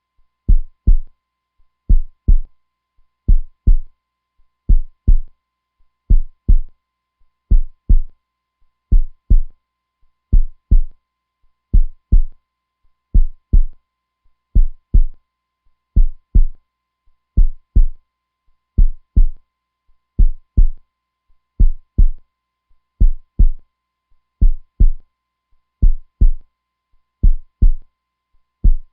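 Heartbeat, a steady slow double thump (lub-dub), about one beat every second and a half.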